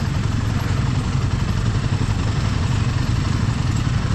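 Royal Enfield motorcycle engine running steadily while under way, with road and wind noise.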